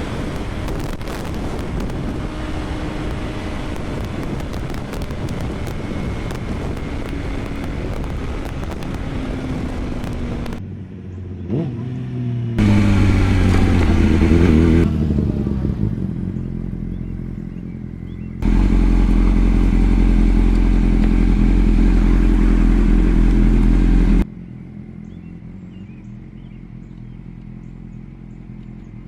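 Honda CBR600 motorcycle engine under way, heard through a helmet microphone thick with wind noise. About halfway in the engine note climbs as the bike accelerates. A loud low wind rush follows, then cuts off abruptly near the end to a quieter engine drone.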